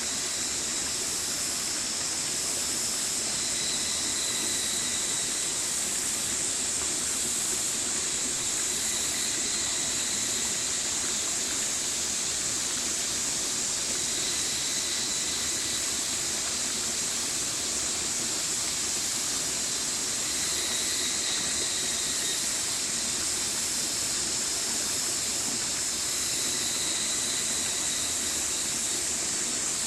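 Stream water flowing steadily, an even rushing that does not change. Faint thin high tones come and go over it several times.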